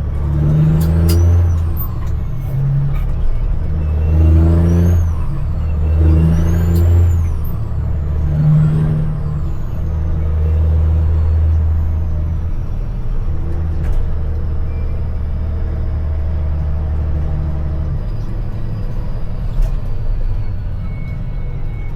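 CAT C-15 diesel in a dump truck pulling through the gears of an 18-speed transmission: the engine note climbs and drops with each shift several times in the first half, with a high turbo whistle rising and falling along with it. It then settles into steadier running under load, with the whistle slowly fading.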